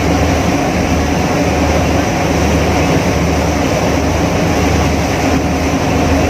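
Ferry engine running steadily with a low, even hum, heard from aboard the boat, with a constant noisy rush over it.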